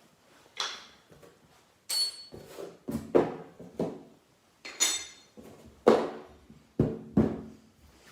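Parts of an RC skid steer model kit being handled and set down on a work surface: about ten irregular knocks and clinks, a few of them with a short high ring.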